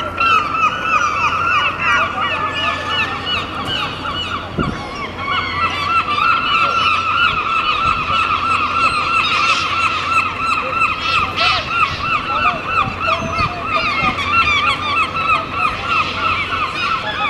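A flock of gulls calling over one another without a break, a dense clamour of short, rapidly repeated squawks.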